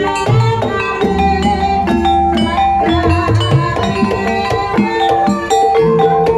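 Javanese gamelan music accompanying a horse-trance dance: a running pattern of tuned mallet-struck notes over deep hand-drum strokes.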